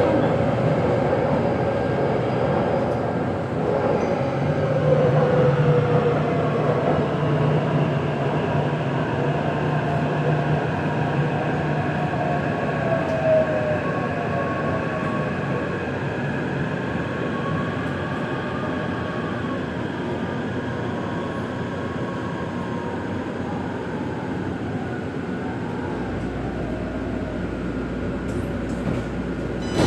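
Interior sound of a Taipei Metro C381 train running between stations: a steady rumble of wheels and motors, with faint tones that rise and fall over it.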